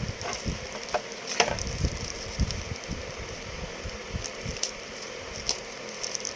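Handling noise from unpacking a USB data cable and its packaging: scattered small clicks and knocks over a steady background hiss.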